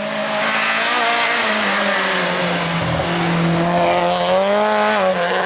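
Rally car engine running at high revs, its pitch wavering and climbing, then dropping sharply about five seconds in, over a steady hiss of tyre noise.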